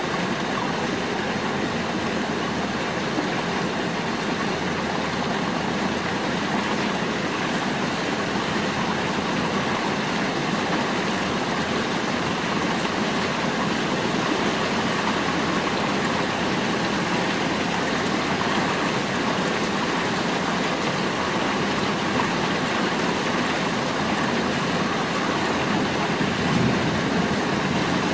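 Steady rain falling on shingled rooftops, an even hiss without break.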